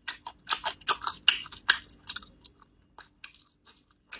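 A person chewing food close to the microphone: quick wet clicks and smacks, several a second, thinning out after about two seconds.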